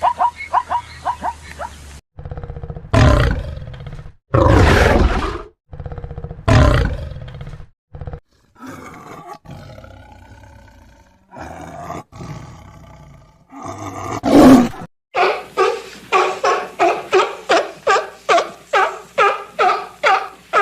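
A string of separate animal calls: several loud, long big-cat roars and growls in the first half, quieter calls in the middle, then a fast run of repeated short calls, about two or three a second, near the end.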